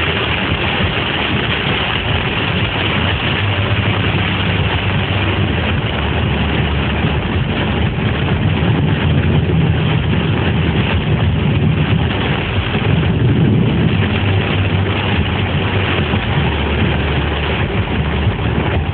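Floodwater rushing in a flash flood: a loud, steady, dense roar of fast-moving water.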